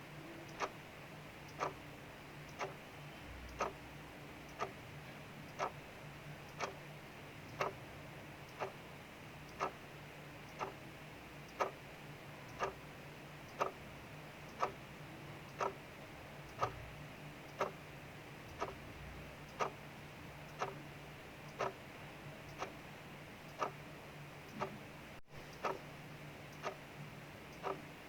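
Clock ticking steadily, about one tick a second, over a steady soft hiss of rain falling outside.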